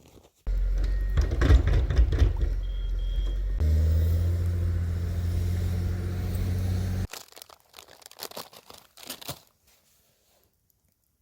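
A low, steady engine hum with clicks over it. It starts and stops abruptly and is followed by a few crunching clicks.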